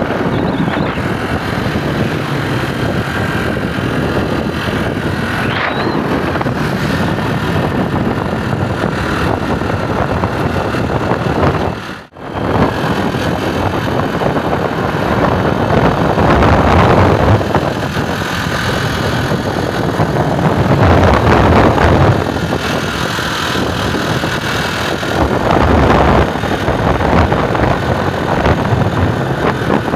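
Storm noise of rain and wind buffeting the microphone, with road vehicles passing on wet pavement and swelling in and out several times. The sound drops out briefly about twelve seconds in.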